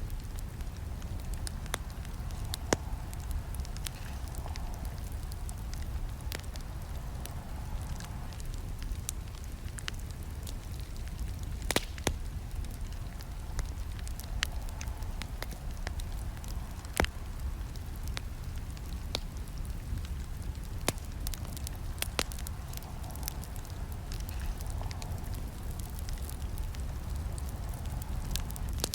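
Campfire burning, with frequent sharp crackles and snaps of the wood over a steady low rumble. A couple of louder pops come about twelve and seventeen seconds in.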